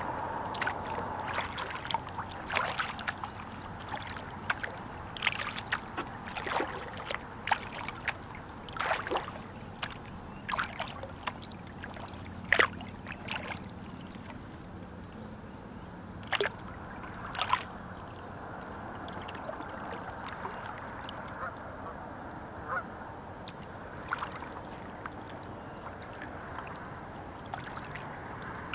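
Kayak on the water: paddling and water sounds with scattered sharp knocks and clicks of gear against the kayak, most frequent in the first half.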